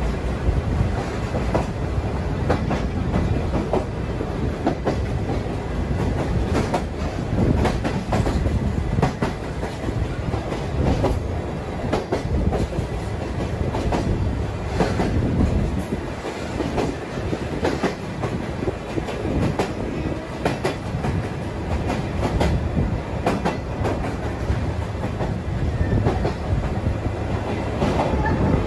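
Sagano sightseeing trolley train running along the line, heard from its open-sided car: a steady rumble of the cars with repeated clickety-clack of the wheels over the rail joints.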